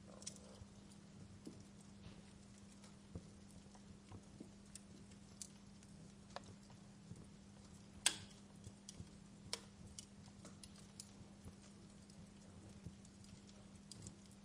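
Wood fire crackling, with scattered sharp pops and one louder pop about eight seconds in, over a faint steady low hum.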